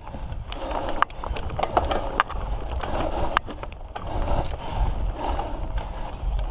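Mountain bike rolling over a rough dirt trail: steady tyre rumble with frequent sharp clicks and rattles from the bike.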